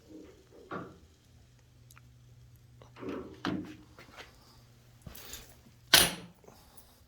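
A few scattered knocks and thunks over a low steady hum, the loudest a single sharp knock about six seconds in.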